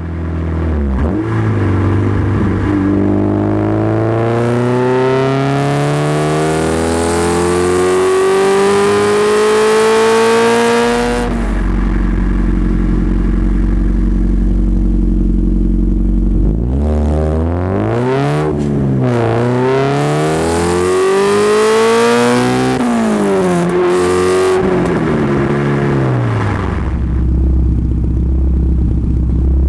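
Exhaust of a Honda B20 VTEC 2.0-litre four-cylinder in an EF Civic: idling, then revving with the engine speed climbing slowly for about eight seconds, dropping back to idle, then several quick blips up and down before settling to idle again.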